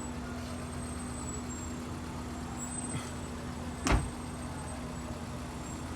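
Steady hum of a car engine idling, with one sharp thump about four seconds in.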